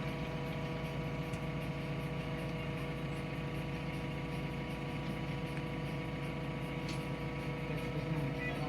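Diesel engine of a heavy construction machine idling, a steady even hum with no change in speed.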